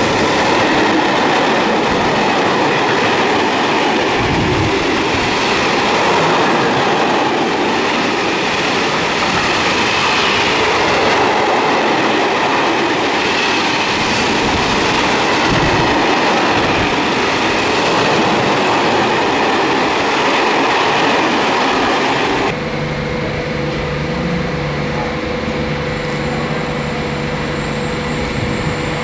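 A long train of cylindrical bulk freight wagons rolling past close by at speed, with a dense rush of wheel-on-rail noise and a faint high ring. About three quarters of the way through it cuts off abruptly to a DB Cargo class 191 Vectron electric locomotive approaching with a steady electric hum.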